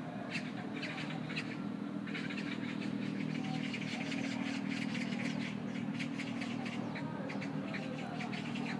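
Small birds chirping over and over in short, quick notes above a steady low hum.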